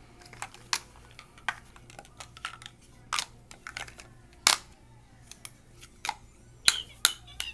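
Irregular clicks and knocks of hard plastic toys being handled and knocked together, the loudest about four and a half and six and a half seconds in.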